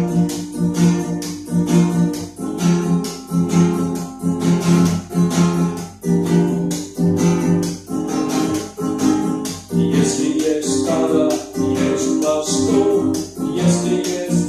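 Acoustic guitar strummed in a steady, even rhythm, playing the chords of an instrumental passage.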